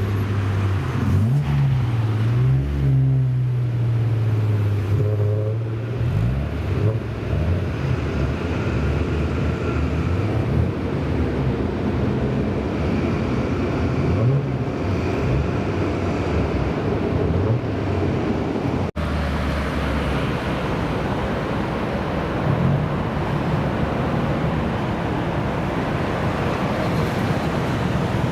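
Car engines running with revs rising and falling, over a steady traffic rumble; the sound breaks off for an instant about two-thirds of the way in, then the engine rumble carries on.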